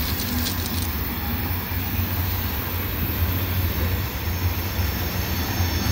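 Freight train of tank cars rolling past on the adjacent track: a steady low rumble of wheels on the rails, with a few faint clicks in the first second.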